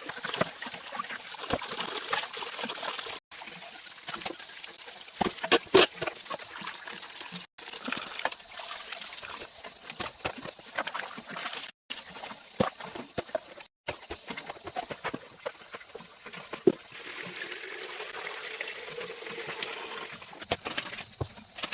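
Water trickling and splashing, with many scattered small knocks and clicks; the sound breaks off abruptly for an instant four times.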